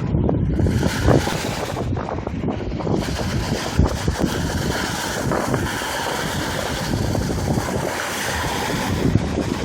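Wind buffeting the microphone beside a lake: a loud, continuous rush heaviest in the low end, with a few brief gusty peaks.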